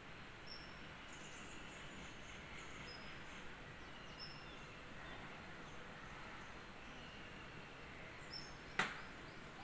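Faint outdoor ambience with small birds chirping: repeated short, high chirps and a few fainter drawn-out calls over a steady low hiss. A single sharp click about nine seconds in.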